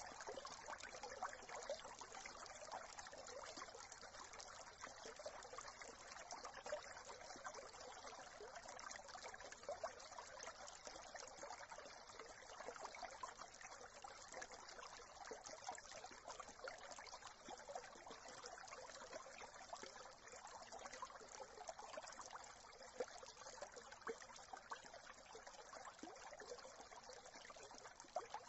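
A small brook trickling steadily, a faint, even babble of running water.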